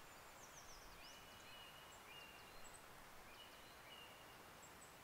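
Faint distant birdsong over a near-silent background: a scatter of short, high chirps and a few thin, level whistled notes.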